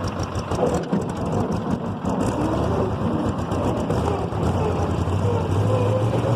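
6.2-litre V8 diesel engine in a 1948 WD-9 tractor running steadily as the tractor is driven, its pitch drifting up and down a little.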